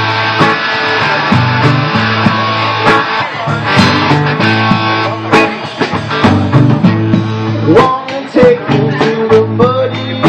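Live rock band playing an instrumental break: lead electric guitar over a second guitar and drums. Sustained chords give way in the second half to bent, gliding lead notes among sharp drum hits.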